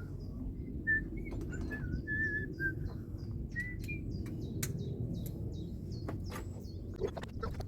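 Small birds chirping in a run of short, high calls through the first half, over a low background rumble, with scattered sharp clicks and knocks.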